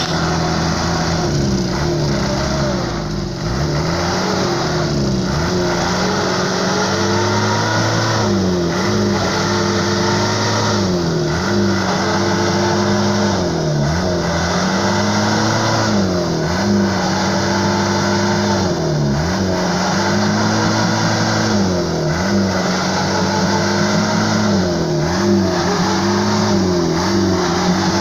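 Motorcycle engine revving hard under load while towing a truck by rope, its pitch repeatedly climbing and then dipping sharply about every two to three seconds.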